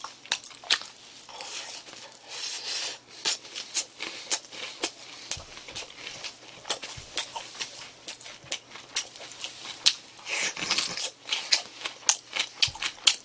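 Close-miked chewing of crisp breaded fried food: irregular crunches and wet mouth clicks throughout, with a breathy exhale or two.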